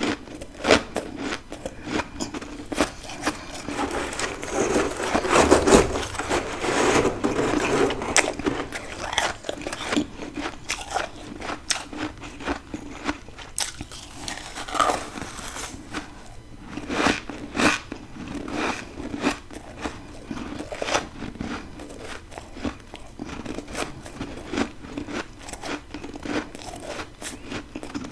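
Close-miked biting and chewing of frozen freezer frost and ice: a long run of crisp crunches and crackles. The crunching is densest a few seconds in, then goes on as separate sharp bites.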